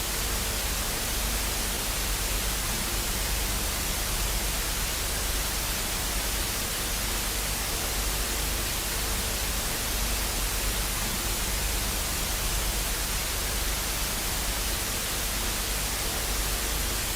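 Steady hiss of static, unchanging throughout, with a faint low hum beneath it.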